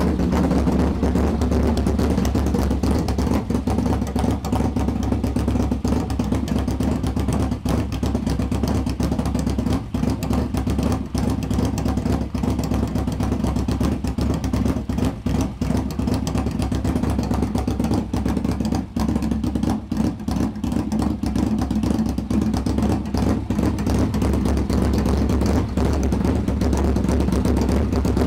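Yamaha VMAX 1200's V4 engine idling steadily through a loud custom exhaust, warming up just after a cold start.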